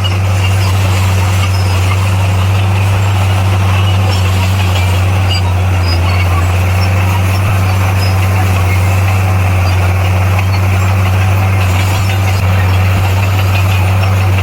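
Bulldozer's diesel engine running steadily at an unchanging pitch, with a strong low hum and a rough mechanical rattle over it.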